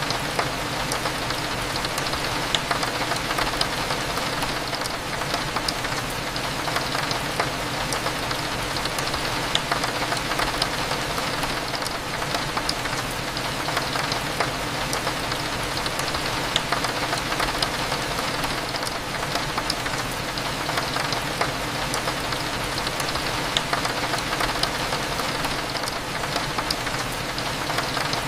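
Steady rain hitting a window, a dense scatter of small drop taps over an even hiss, with a low steady café hum underneath.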